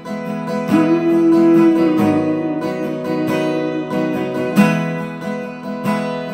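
Acoustic guitar strumming chords in the instrumental break between sung lines of a worship song.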